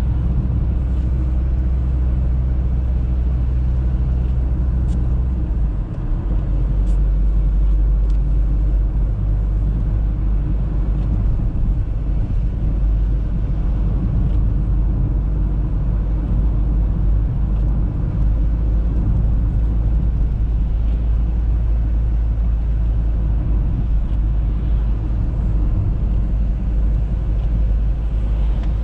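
Audi A3 driving: a steady, low rumble of engine and road noise. The low drone shifts in pitch about six seconds in.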